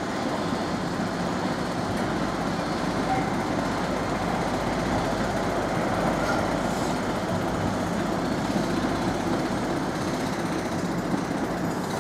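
A train at a station, running with a steady mechanical rumble that swells slightly in the middle.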